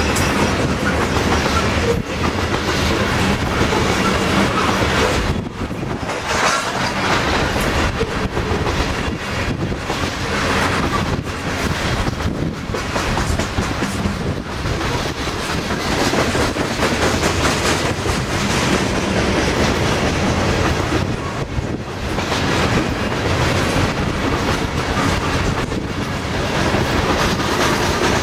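Loaded coal hopper cars of a long freight train rolling past: a steady, loud rumble of steel wheels on rail, with a continuous clickety-clack of wheels striking rail joints.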